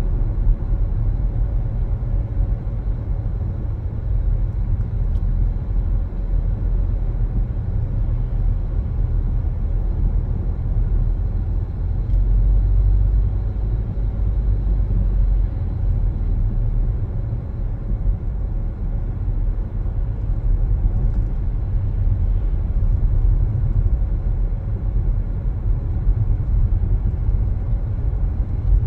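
Steady low rumble of a car driving, road and engine noise with gentle swells in loudness.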